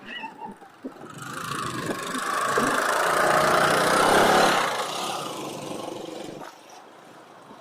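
A motor vehicle passing close by the bicycle: its engine and tyre noise swell up over a few seconds and then fade away. A few light knocks and rattles come just before it.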